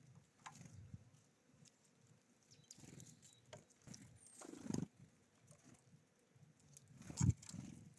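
Small birds at a feeder: faint scattered taps and pecks, two louder soft thumps with a brief rush about halfway and near the end, and a short high chirp.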